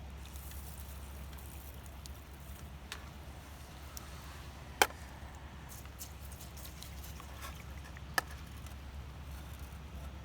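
A steady low hum with two sharp clicks, one about five seconds in and one about eight seconds in, and a few fainter ticks between.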